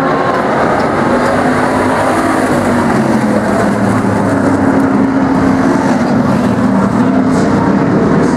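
A field of demo trucks racing on an oval, many engines running hard together in a steady, loud din.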